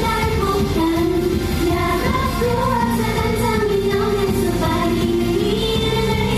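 Live pop song with female idol-group singing over a backing track with steady bass.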